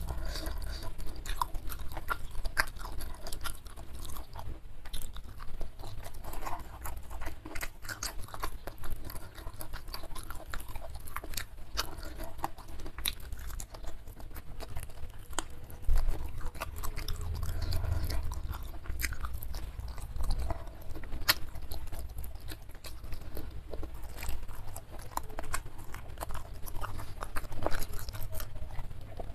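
Chewing and crunching of crispy smashed fried chicken (ayam geprek) eaten by hand, with irregular crunches and clicks all through.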